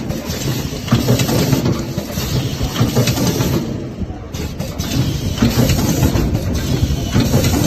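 Semi-automatic cable end tinning machine running: a steady, loud mechanical hum with an uneven clatter, easing briefly about four seconds in.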